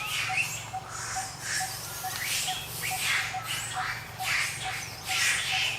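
Short high chirps and squeaks from a small animal, over repeated bursts of rustling noise and a faint steady ticking.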